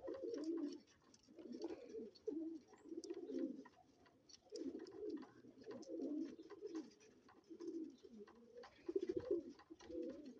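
Domestic roller pigeons cooing in a loft: a string of low, throaty coos about once a second, with faint light clicks between them.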